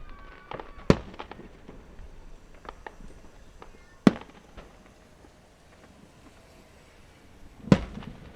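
Fireworks going off: three loud bangs about three seconds apart, with scattered smaller pops and crackles in between.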